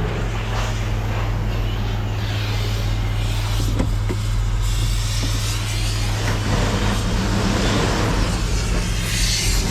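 Pickup truck driving, a steady low engine and road drone with tyre and wind hiss.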